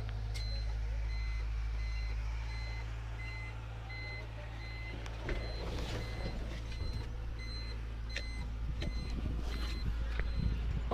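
Truck reversing alarm beeping repeatedly over the steady low hum of the truck's engine, with a few clattering knocks in the second half.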